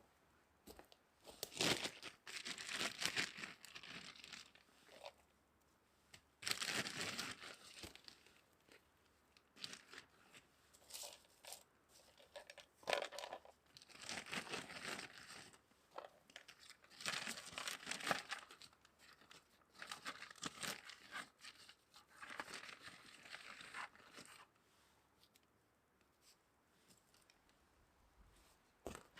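Crinkling and rustling of packaging being handled, in irregular bursts a second or two long with short pauses between.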